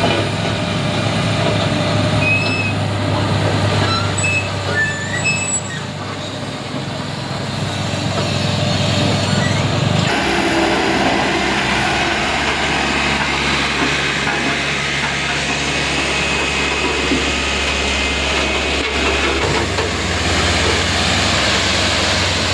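Heavy diesel engine running with a steady low drone; its note changes abruptly about ten seconds in and again a few seconds before the end. A few short high chirps sound early on.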